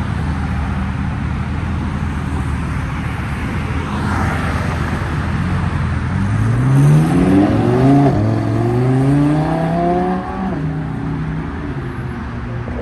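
A car engine running steadily, then accelerating hard about six seconds in, its pitch climbing and dropping with each of three or four quick upshifts before it backs off.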